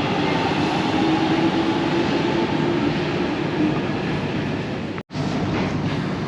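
London Underground Jubilee line train moving at the platform, a steady rumble with a motor whine held on a few steady tones that fade out after about three and a half seconds. The sound drops out for an instant about five seconds in.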